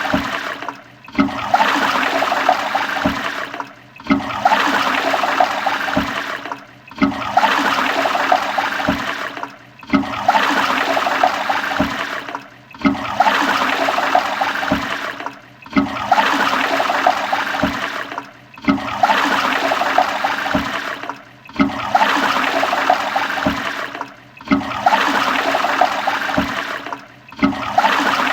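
Toilet flushing: a rush of water that repeats about every three seconds, with a short drop in level between passes, like one short flush played over and over.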